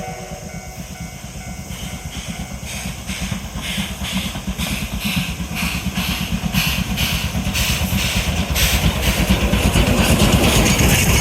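Oigawa Railway's Thomas the Tank Engine steam locomotive approaching under steam. Its exhaust chuffs come about two to three a second over a low rumble and grow steadily louder.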